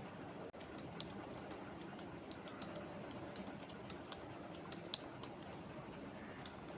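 Computer keyboard typing: irregular keystroke clicks in short runs, over a steady background noise.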